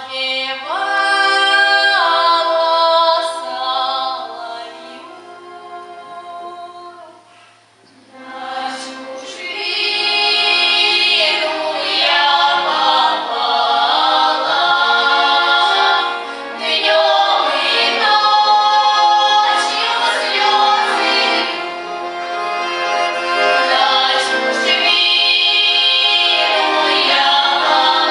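A Russian folk song sung by a female soloist and a folk choir. It opens with long held notes, drops quieter about seven seconds in, then comes back fuller and louder from about eight seconds on.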